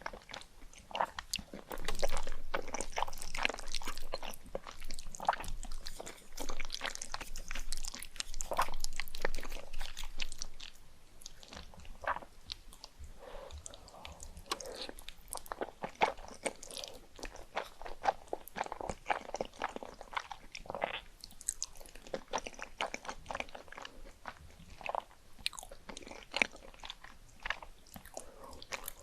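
Close-miked eating sounds: a person biting and chewing food with wet, crunchy clicks and smacks, loudest in the first third and softer after.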